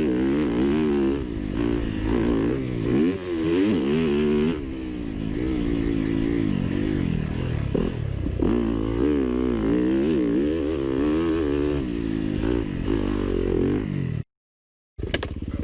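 Motorcycle engine being ridden hard, its pitch rising and falling again and again with throttle and gear changes, over wind noise. The sound cuts off suddenly near the end.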